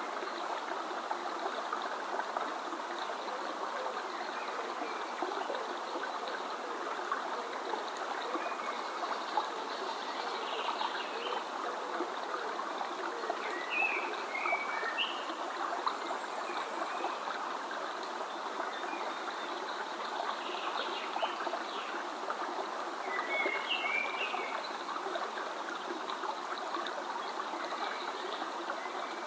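A stream running steadily, with a few short bird chirps about halfway through and again later on.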